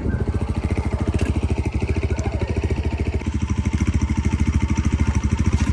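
Small engine running steadily at an even speed, its firing heard as a fast, regular pulse.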